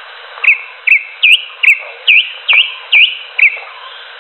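Cucak hijau (green leafbird) calling: a series of eight short, sharp, hooked whistled notes at about two a second, then stopping. The recording is thin and tinny, with no bass or top.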